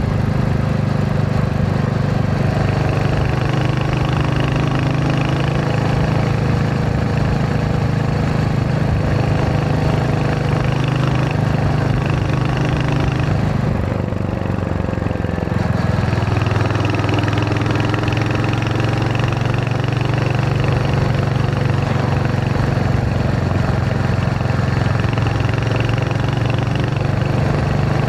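Royal Enfield Hunter 350's single-cylinder engine running steadily under way. About halfway through, the engine note dips briefly as the throttle eases, then picks back up.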